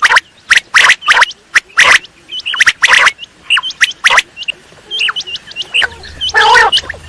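Recorded quail calls: quick sharp call notes in irregular runs, with short high chirps between them. About six seconds in comes a longer, harsher rasping call.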